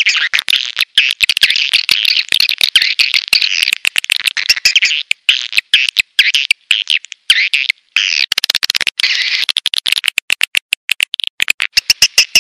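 Edible-nest swiftlet calls played as a lure track: dense, high twittering chirps broken by rapid sharp clicks. Near the end the calls settle into a steadier high trill.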